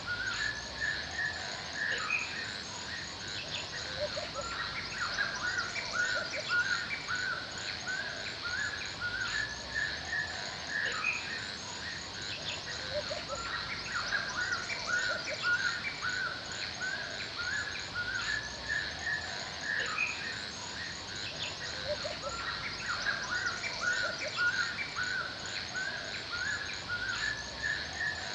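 Forest ambience of many birds chirping and singing in short repeated phrases over a steady background hiss, with a fast, even run of very high chirps throughout.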